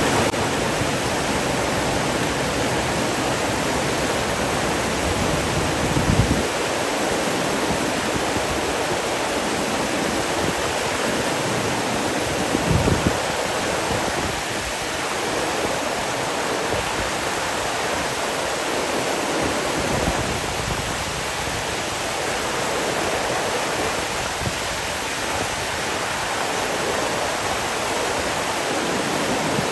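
Steady rush of running water, such as a stream or waterfall, with two brief low thumps, about six seconds in and again about thirteen seconds in.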